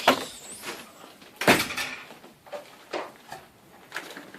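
Two sharp knocks, one right at the start and a louder one about a second and a half later, then a few lighter knocks.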